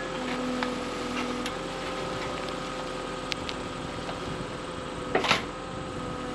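A steady mechanical hum, like an engine running at a distance, with a few faint clicks and one brief louder scrape or knock about five seconds in.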